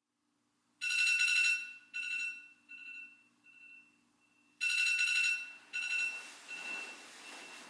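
A bright electronic beep tone sounding twice, each time followed by fading echo repeats, with a rising hiss building under the second set; it cuts off abruptly at the end.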